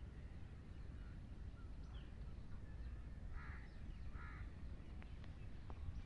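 Two short, harsh bird calls about a second apart in the middle, over a low steady rumble, with a few faint ticks near the end.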